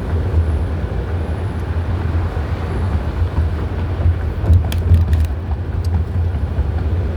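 Steady low rumble of a running vehicle, with a few faint clicks about two-thirds of the way through.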